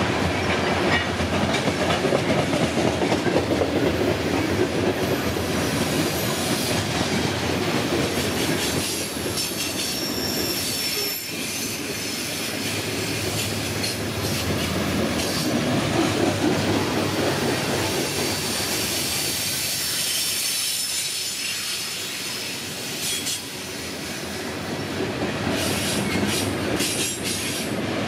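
Loaded coal hopper cars of a freight train rolling past: a steady rumble of steel wheels on rail, with a high-pitched squeal from the wheels that comes and goes through the middle. A few sharp clacks sound near the end.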